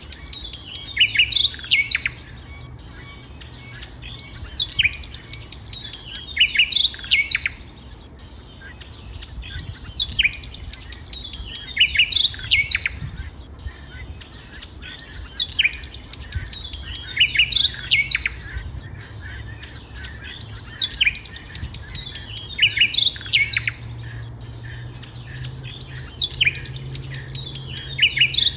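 A songbird singing the same phrase over and over, about every five seconds. Each phrase opens with a high falling note, runs into a quick string of even notes, then ends in lower, falling notes.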